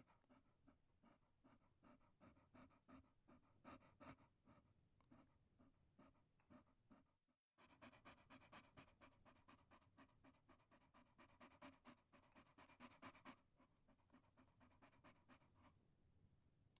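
A Chihuahua panting quickly, about four short breaths a second, quiet and close. The sound cuts out for a moment about seven seconds in, then resumes a little stronger.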